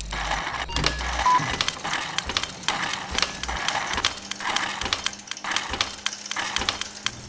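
Rapid, irregular clicking and clattering of hard small parts, with a low hum in the first second or so.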